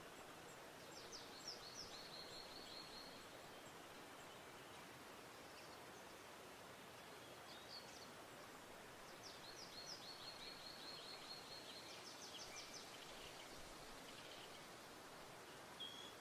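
Faint songbird song over a steady hiss: two songs, each a few quick high notes running into a rapid trill. One comes about a second in and a longer one about nine seconds in.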